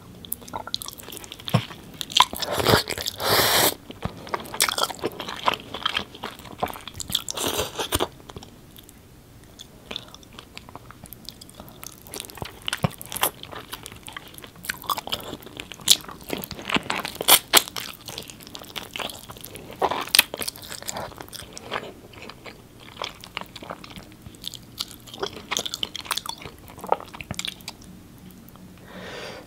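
Close-miked eating sounds: a person biting into and chewing curry-dipped food and rice, with crunchy, crackling bites in bouts and quieter chewing between them.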